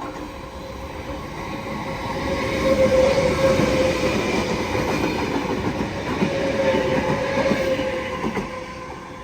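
NSW TrainLink V set intercity electric train passing through the station, its wheels rumbling and clattering on the rails with a steady whine over it. The sound builds over about three seconds, holds, then fades away near the end.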